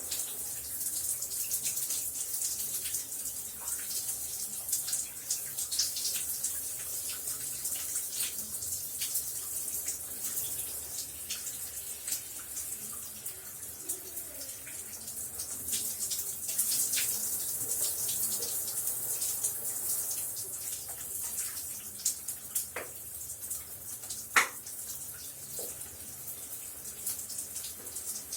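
Shower running: a steady hiss of falling spray with scattered sharper splashes of drops, a few louder ones near the end.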